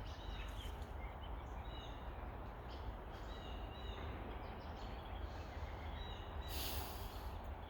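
Faint, scattered short bird chirps over a steady outdoor background with a low rumble, and a brief rustle about seven seconds in.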